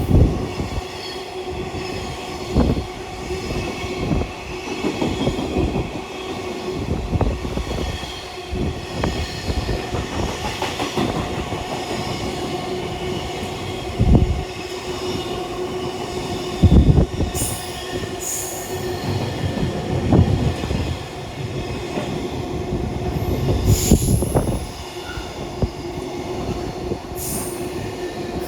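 Container freight train behind electric locomotive EF66-125 rolling through a station, its wheels thumping irregularly over rail joints with a steady metallic whine, and a few brief high squeals in the second half.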